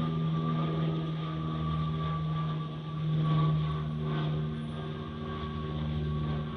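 Aircraft engine noise: a steady low hum with a higher whine that slowly falls in pitch, swelling a little about three seconds in.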